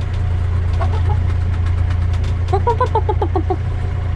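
Sailing yacht's inboard diesel engine running steadily at low revs under way. About two and a half seconds in, a small dog gives a quick run of high, chicken-like yelps.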